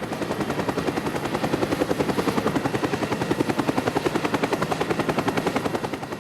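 Sound effect of a fast, steady chopping pulse, about ten beats a second, like a helicopter's rotor, easing off slightly near the end.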